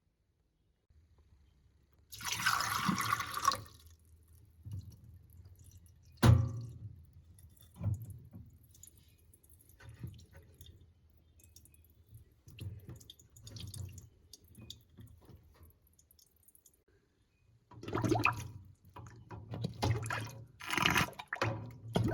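Miniature toilet flushing: a brief rush of water about two seconds in, a sharp click, then scattered drips and gurgles, with louder splashing bursts near the end.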